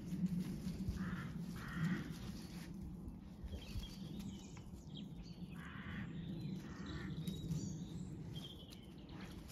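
Harsh, caw-like bird calls, in two pairs about a second in and about six seconds in, over a steady low background hum.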